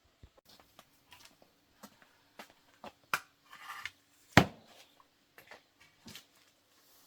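Tools and small metal parts being handled on a workbench during a motor repair: scattered clicks and knocks, the loudest about four and a half seconds in, over a faint steady hum.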